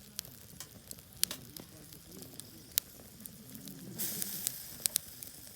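Wieners roasting over a campfire squeaking in thin gliding whines as juices and steam force their way out through the skin. Sharp crackling pops from the wood fire run throughout, with a short burst of hissing about four seconds in.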